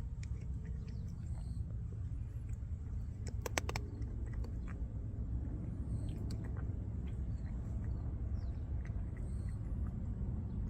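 Cat chewing food, with faint scattered clicks and crunches and a brief cluster of sharp clicks about three and a half seconds in, over a steady low background rumble.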